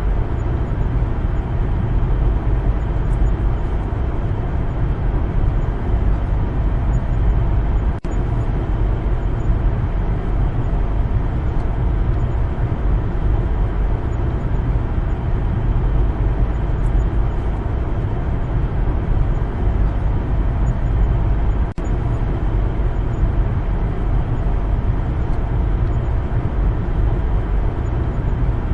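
Steady low rumble of a car driving on the road, tyre and engine noise without change in pace. It drops out for a split second twice.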